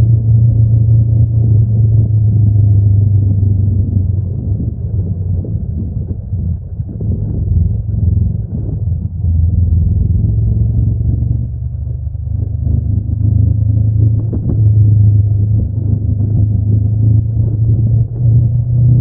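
Honda NX500's 471 cc parallel-twin engine with stock exhaust, running under way as the motorcycle is ridden. The engine note eases off twice, about a third of the way in and again just past the middle, then pulls strongly again.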